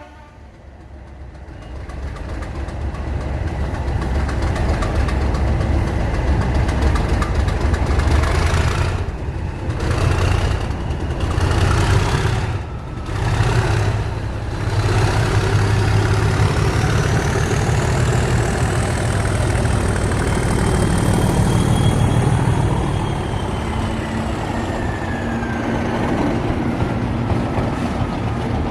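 Class 37 diesel locomotives' English Electric V12 engines powering up from notch 4 to 5, building in loudness over the first few seconds into a steady, heavy run. In the second half a high turbocharger whistle rises and then falls away.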